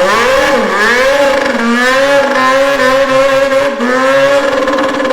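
Race car engine running at high revs, its pitch wavering and climbing over the first two seconds and then holding high and steady, with a couple of brief dips.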